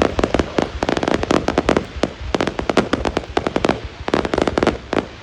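Fireworks going off in a rapid, irregular string of sharp bangs and cracks, several a second, with brief lulls about two and four seconds in.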